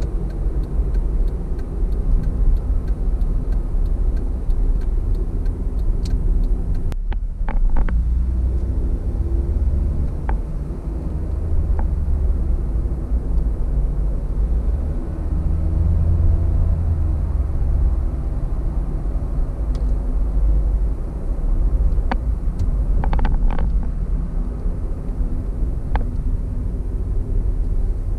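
Car cabin noise at highway speed: a steady low rumble of engine and tyres on the road, broken by a few short clicks about a quarter of the way in and again near the end.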